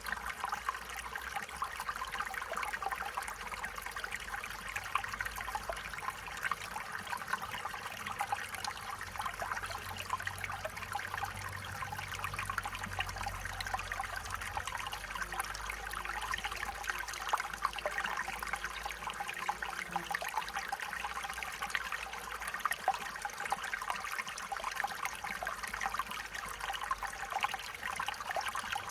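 Stream water trickling and babbling steadily over rocks, a continuous bright gurgle.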